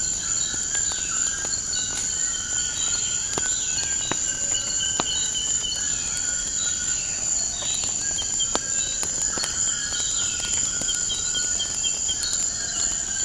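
Nature ambience with a wood fire: a steady high insect chirring, birds calling again and again with notes that slide down in pitch, and scattered sharp crackles from burning logs.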